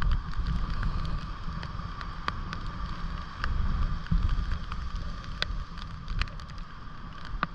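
Wind buffeting the microphone over the rush of heavy storm surf, with scattered sharp ticks throughout.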